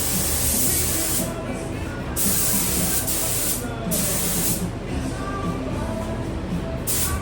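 Automotive paint spray gun hissing in several bursts with short pauses between them, as the trigger is pulled for each pass of paint.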